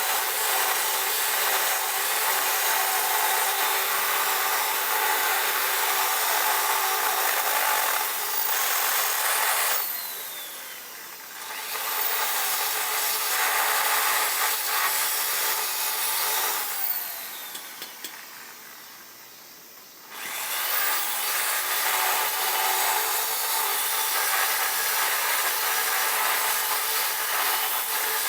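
A handheld electric power tool running under load, abrading or cutting at a surface with a steady rasping noise; twice it is eased off and spins down briefly before running up again.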